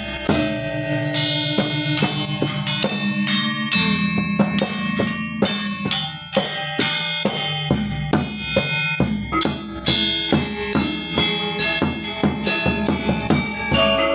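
Balinese gamelan ensemble playing: metal keyed instruments struck in quick, dense strokes with ringing tones over sustained low notes, with drum and cymbal strokes.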